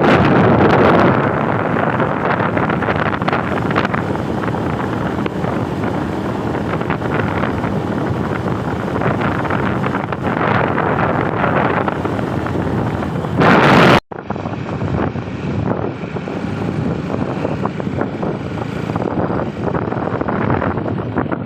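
Wind buffeting the microphone: a loud, uneven rushing. It cuts out abruptly for an instant about two-thirds of the way through, then resumes a little thinner.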